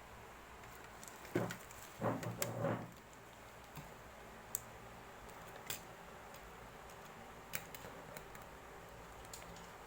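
Small objects being handled: a brief rustle and clatter about two seconds in, then a few scattered light clicks over faint background hiss.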